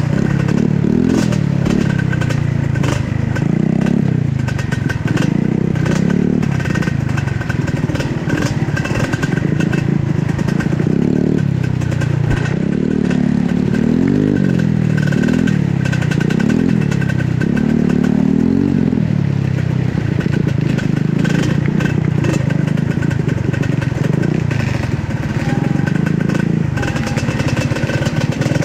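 Trail motorcycle engine revving up and down over and over in short bursts of throttle, the pitch climbing and dropping about once a second, as the bike is worked along rough ground.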